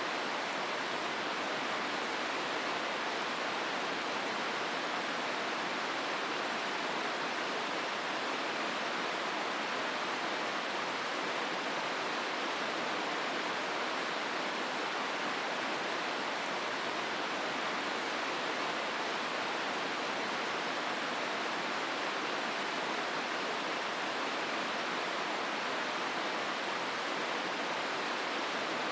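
The Hozu River rushing steadily through its gorge, an even wash of flowing water with no breaks.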